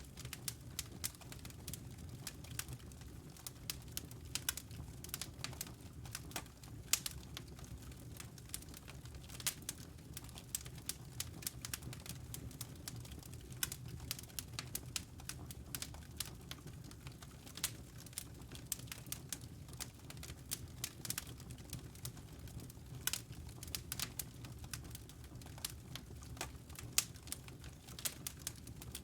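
Wood campfire crackling: frequent irregular sharp pops and snaps over a steady low rumble of the burning flames.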